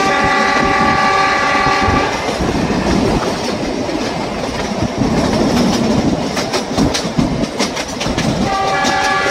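Narrow-gauge train running, heard from an open coach window, with the wheels clattering over the rail joints. The locomotive's horn sounds for about two seconds at the start and again near the end.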